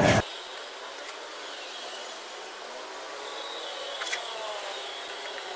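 Rubbing on oak wood, as oil is worked into it, cuts off abruptly a moment in. After that only a faint, steady background hiss remains, with a faint high chirring.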